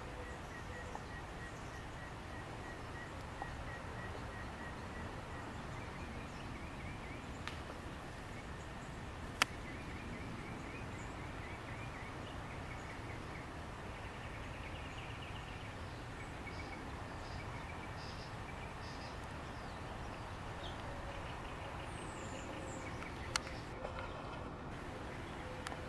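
Steady outdoor background noise with faint songbird chirps and trills scattered through it, and two sharp clicks, one about nine seconds in and one near the end.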